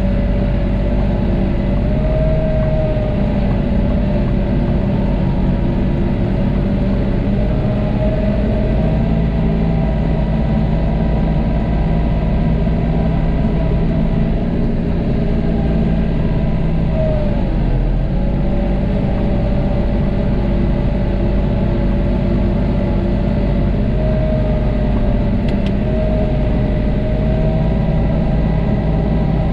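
John Deere tractor engine running steadily while plowing snow, heard from inside the cab; its pitch sags briefly a little over halfway through and rises slightly a few times.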